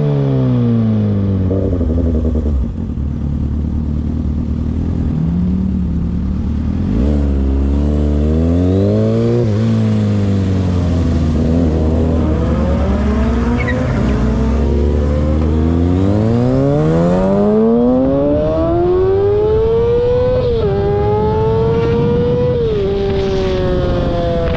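Car engine accelerating hard: the revs rise and fall, then climb steadily through two quick upshifts before falling away near the end.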